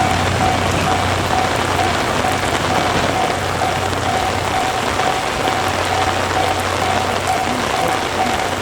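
Heavy typhoon rain pouring down, a dense steady hiss of rain on surfaces, with a repeating high-pitched tone sounding on and off in the background.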